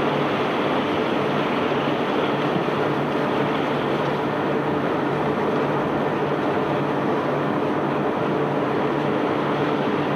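Self-unloading barge's machinery running steadily while discharging stone: a continuous dense rumble and hiss with a faint steady hum underneath.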